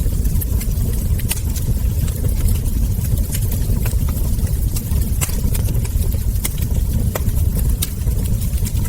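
Wood fire burning: irregular sharp crackles and ember pops over a steady low rumble.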